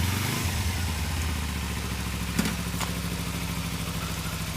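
Kawasaki Ninja 250's parallel-twin engine running at low, steady revs as the bike rolls off, slowly getting quieter. A short click sounds about two and a half seconds in.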